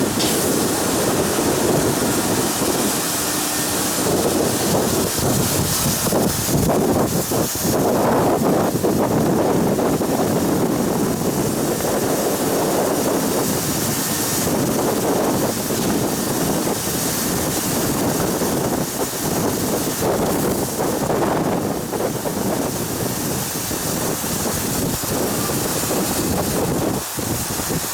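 Strong wind buffeting the microphone in uneven gusts, a rushing, rumbling noise.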